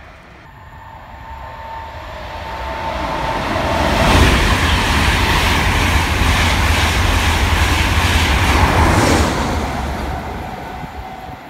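A train of Mk4 coaches worked by a pair of Class 91 electric locomotives passes at speed. The rumble and rush of wheels on rails builds, is loudest for about five seconds in the middle with a rhythmic clatter of wheels over rail joints, then fades as the train draws away.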